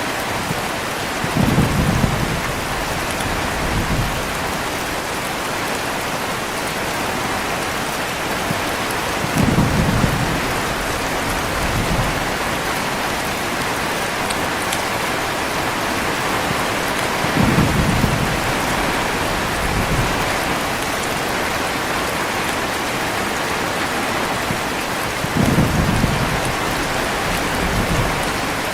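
Steady heavy rain with low thunder rumbling four times, about every eight seconds. Each rumble is a stronger roll followed by a weaker one about two seconds later.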